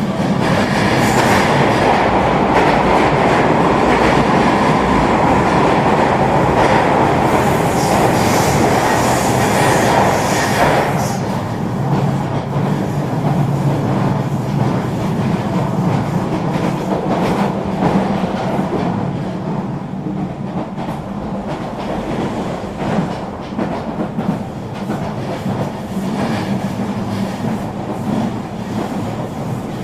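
Regional train running on the rails: steady rolling noise with wheels clicking over rail joints. The noise is louder and hissier for about the first ten seconds, then eases off, and the clicks stand out more.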